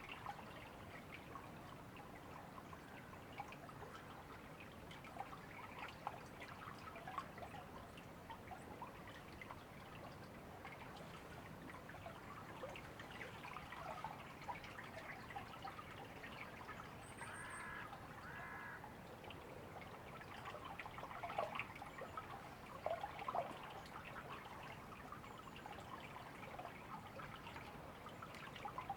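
A river or stream trickling and babbling steadily. A bird gives two short calls a little past halfway through.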